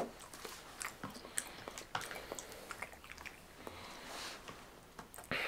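Person chewing soggy breakfast food with scattered small mouth clicks. A louder rush of noise comes near the end.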